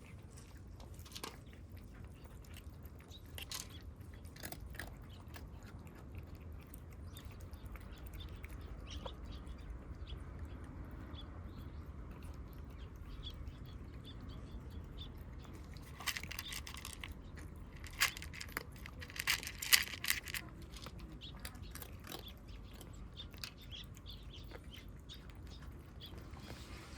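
Kittens eating, with many small crunching and chewing clicks. A cluster of louder clicks comes about two-thirds of the way through.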